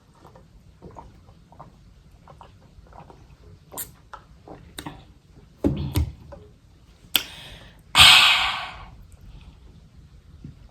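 Close-up eating sounds: soft wet mouth clicks and small utensil and food-handling noises, with a couple of dull knocks about six seconds in. About eight seconds in comes a loud crackling noise burst that fades over about a second.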